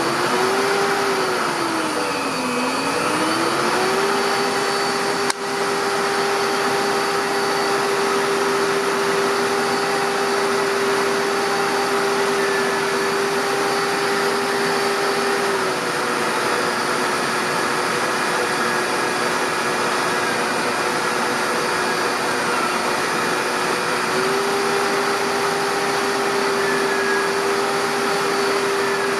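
Electric drive motor spinning a self-excited DC generator, running with a steady whine and hiss. The pitch dips twice near the start, drops slightly about halfway through and comes back up near the end. There is a single click about five seconds in.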